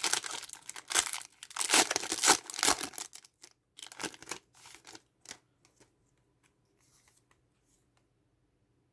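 Foil Pokémon booster pack wrapper being torn open and crinkled: a dense stretch of tearing for about three seconds, then a few scattered rustles that die away after about five seconds.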